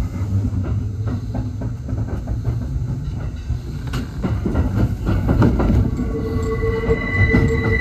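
Kintetsu 1021 series electric train running, heard from the driver's cab: a steady rumble with repeated clacks of the wheels over points and rail joints. About six seconds in, a high steady squeal starts, typical of wheel flanges squealing on the track.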